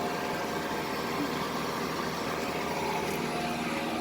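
York commercial packaged air-conditioning unit (gas pack) running: a steady mechanical hum of its fans and blower, with a faint steady whine over it.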